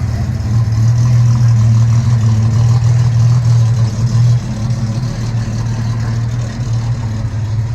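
A car engine idling close by, a steady low rumble; it drops a little in level about four and a half seconds in.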